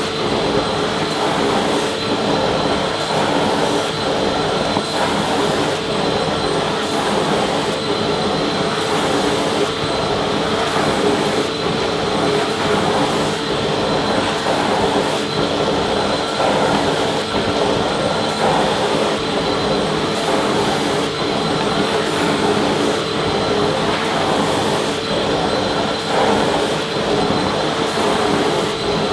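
Vacuum cleaner motor running steadily without a break: an even rush of air with a constant hum and a high whine.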